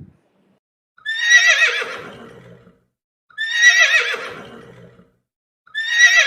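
A horse whinnying three times, the same quavering call repeated about every two and a half seconds. Each call fades out at the end.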